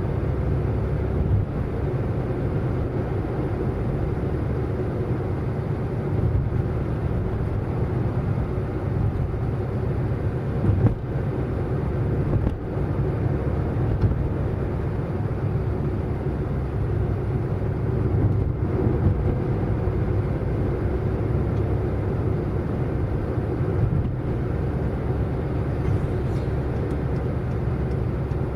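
A car driving at a steady speed: a continuous low engine and road drone with no marked change in pitch, broken by one brief knock about eleven seconds in.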